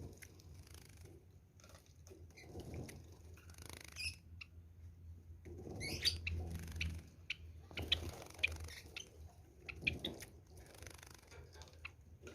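Java sparrows bathing: bursts of wing-flapping and splashing in water, with short, high chirps between them, over a steady low hum.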